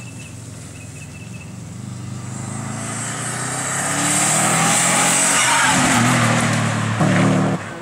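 A race car's engine and tyres, approaching at speed and passing close, growing louder to a peak about five seconds in. The sound cuts off abruptly near the end.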